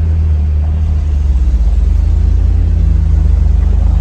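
Steady low rumble of a moving vehicle: engine drone and road noise.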